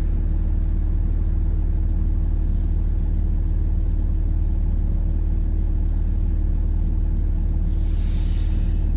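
Vehicle engine running steadily, heard from inside the cab: an even low rumble with a faint steady hum over it. A soft hiss rises near the end.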